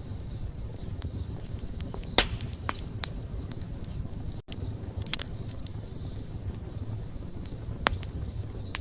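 Wood campfire burning, a steady low rush of flame with irregular sharp crackles and pops from the burning wood, the loudest a little over two seconds in. The sound drops out for an instant about halfway.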